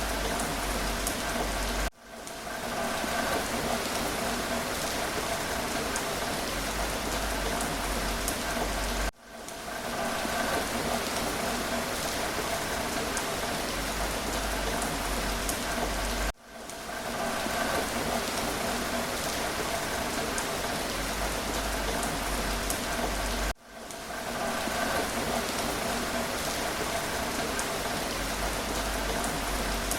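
Steady rain falling, an even hiss of drops. The sound cuts out abruptly about every seven seconds, four times here, and swells back in over about a second.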